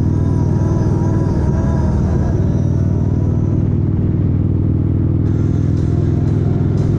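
Motorcycle engine running steadily while riding, with background music over it; from about five seconds in, a regular ticking beat comes roughly twice a second.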